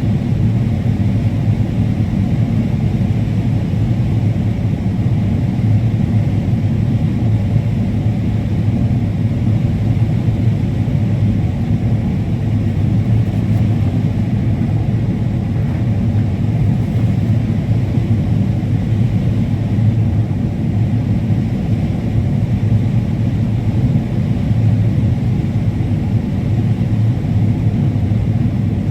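Combine harvester running steadily while harvesting corn: an even, unbroken low drone.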